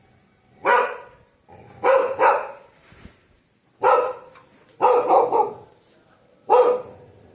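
A dog barking: about seven loud barks, some singly and some in quick pairs, with short pauses between.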